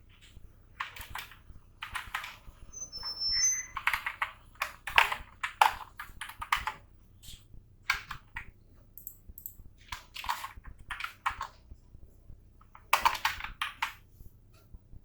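Computer keyboard typing in short bursts of rapid keystrokes, with pauses between the bursts.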